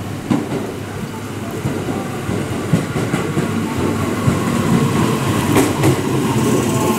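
E131 series electric multiple-unit train running into a station platform, getting louder as it comes alongside. Its wheels clack in pairs over a rail joint twice, and a steady whine runs under the rumble from about halfway on.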